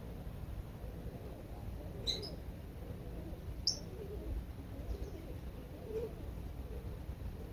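Short bird chirps over a steady low rumble: two clear high chirps about a second and a half apart, a couple of seconds in, and a fainter one later.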